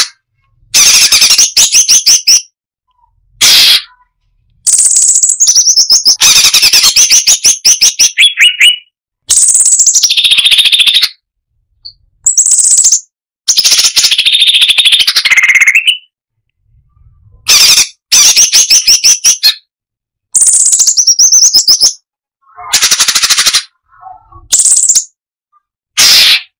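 Striated bulbul (cucak cungkok) singing loudly in phrases of rapid-fire repeated notes. Each phrase lasts one to three seconds, with short silences between them.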